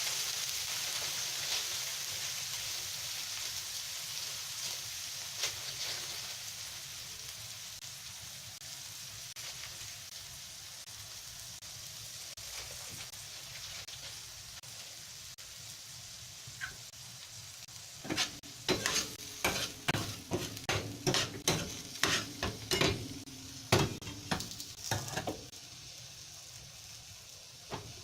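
Kimchi and pork belly sizzling in a frying pan, the sizzle slowly dying down. About two thirds of the way in, a spatula stirs the food, knocking against the pan in a quick run of clacks for several seconds.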